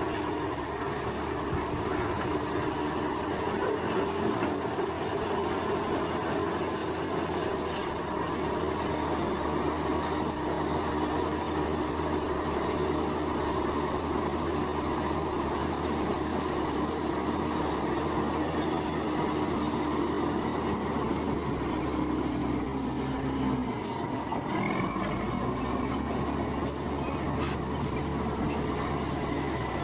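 Tracked bulldozer working, with its diesel engine running steadily and a continuous squeal and clatter from the steel tracks. The engine note drops about two-thirds of the way through.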